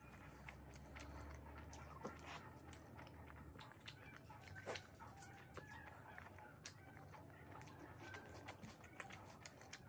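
Near silence with faint, scattered wet clicks and soft smacks of a mouth chewing rice and mutton curry.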